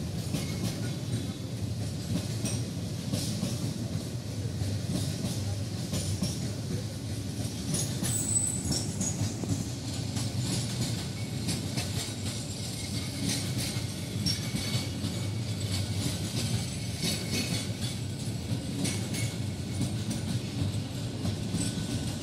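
Container freight train's loaded flat wagons rolling past: a steady rumble of steel wheels on rail with repeated clicks as the wheels cross rail joints, and a brief high wheel squeal about eight seconds in.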